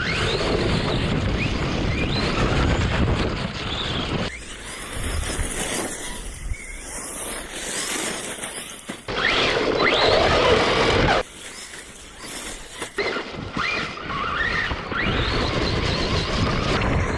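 RC monster trucks (ARRMA Granite 3S BLX and JLB Cheetah) driving hard on pavement: their brushless electric motors whine up in pitch again and again as they accelerate, over rumbling tyre and wind noise. The sound breaks off abruptly several times.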